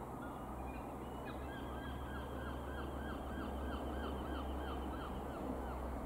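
A bird calling a rapid run of about a dozen short, arched notes, about three a second, over a steady low rumble.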